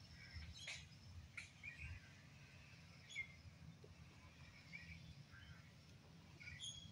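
Faint, scattered bird chirps over a quiet outdoor background, with a couple of soft clicks in the first second and a half.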